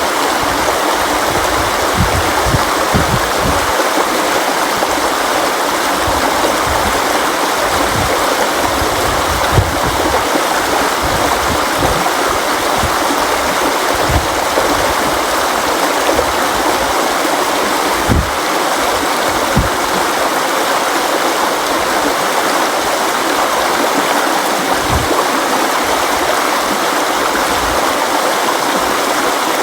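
River water flowing over rocks in a steady rush, with occasional low thuds from the current.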